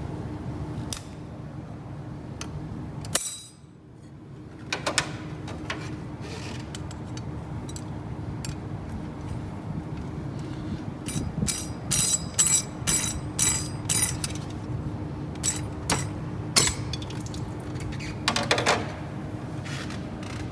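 Metal tools and engine parts clicking and clinking during engine disassembly, with a quick run of sharp metallic clinks about halfway through, over a steady low hum.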